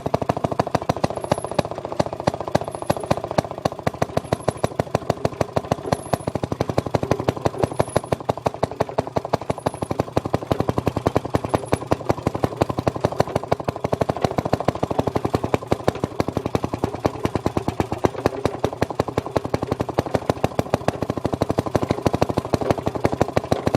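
Maytag Model 92 single-cylinder two-stroke gas engine running steadily on the washer, its exhaust giving a rapid, even string of sharp pops.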